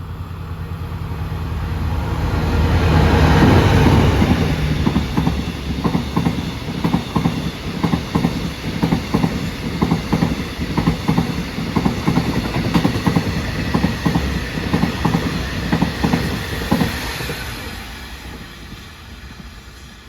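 Diesel train passing close by: the locomotive's engine swells to a peak a few seconds in, then a long rhythmic clickety-clack of wheels over the rail joints runs on as the cars go by, fading near the end.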